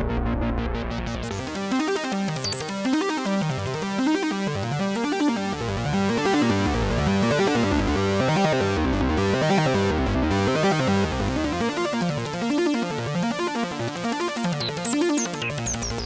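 Arturia Jun-6V software synthesizer, an emulation of the Roland Juno-6, playing a preset. A deep bass note drops out about a second and a half in, and the sound then sweeps up and down over and over.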